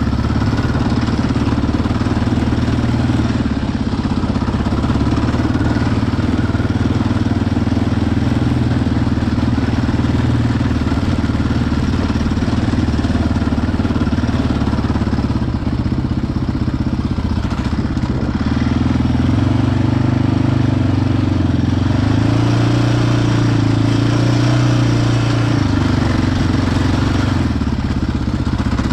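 Yamaha Raptor quad's single-cylinder engine running at low revs, picking up in pitch and loudness for several seconds past the middle before easing back.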